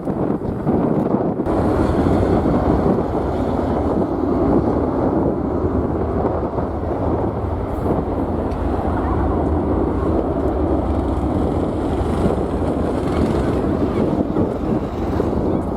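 Jet airliner engines at takeoff power, a steady low rumble, mixed with strong wind buffeting the microphone. The deepest part of the rumble grows stronger about a second and a half in.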